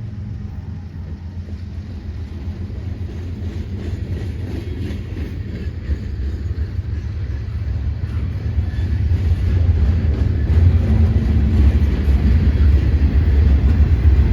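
Norfolk Southern freight train approaching: a low diesel rumble that grows steadily louder.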